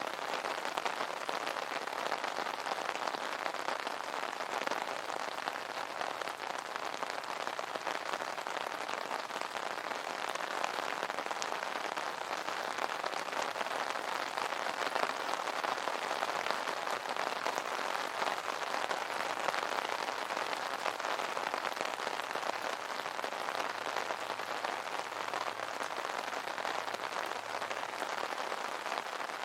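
Rain pattering steadily on a fabric umbrella: a dense, even patter of drops.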